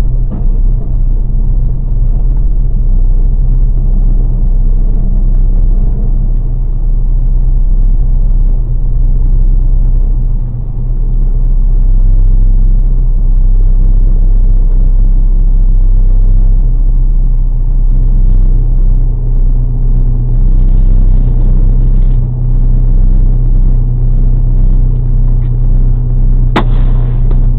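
Steady low rumble of a motor vehicle under way, its engine giving a continuous drone. There is one sharp click near the end.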